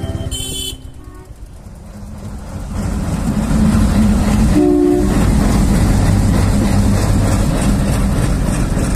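A diesel locomotive hauling passenger coaches passes close by a level crossing: a steady engine rumble and wheel noise builds up from about two and a half seconds in and stays loud. A short horn toot sounds about five seconds in. Background music cuts off in the first second.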